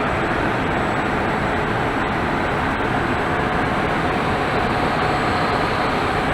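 Steady rushing cabin noise inside a Boeing 787-9 airliner, an even rush of air with a faint hum and no breaks.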